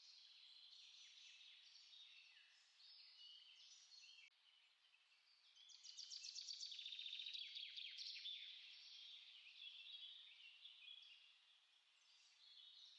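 Small songbirds singing, their short chirping phrases overlapping. A louder, rapid trill of quick repeated notes comes in about six seconds in and lasts a couple of seconds.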